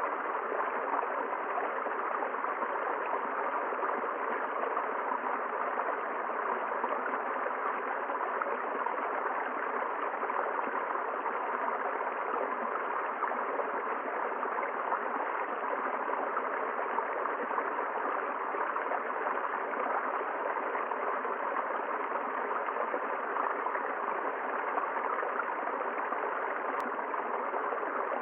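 River water flowing over a streambed, giving a steady, even rushing sound with no change in strength.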